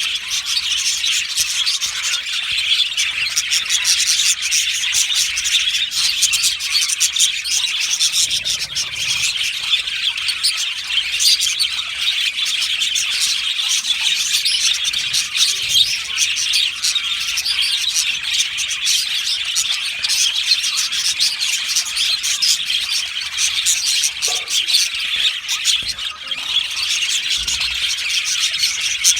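A colony of budgerigars chattering and chirping together: many birds at once in a dense, unbroken warble.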